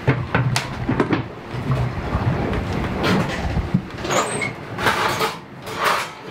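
A series of sharp knocks and clatters, followed by a few bursts of rushing noise in the second half.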